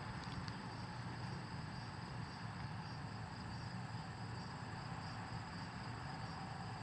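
Faint background: a cricket chirping steadily in an even, rapid rhythm over a low hum and hiss.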